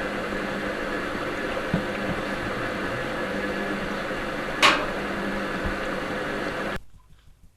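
Front-loading washing machine running through a wash cycle, a steady hum and churning with a small knock and then a short sharp hiss partway through; the sound cuts off abruptly near the end.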